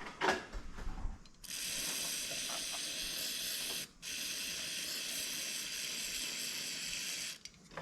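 Compressed-air blow gun blowing out Stromberg carburettor parts during cleaning: two long steady hisses of air, the first about two and a half seconds and the second about three and a half, with a short break between. A few small clicks and knocks come before the first blast.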